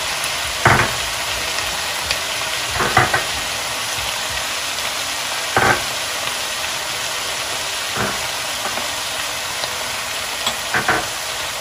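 Mutton mince and chopped tomatoes sizzling steadily in a frying pan, with about five short knocks and clinks as spices are tipped in from a small glass bowl.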